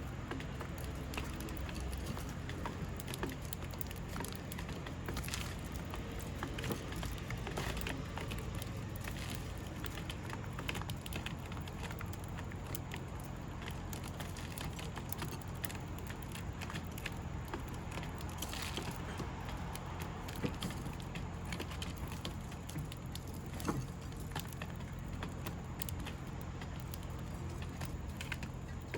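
Outdoor ambience: a steady low rumble with scattered light taps and clicks.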